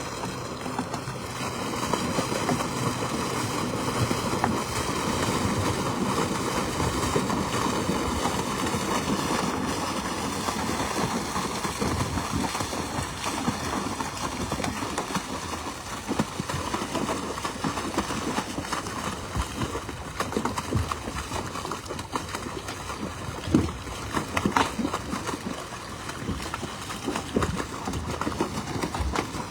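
Water and live fish gushing out of a fish-stocking truck's tank into a lake: a steady rush of splashing water with many small irregular knocks, and a few louder knocks near the end.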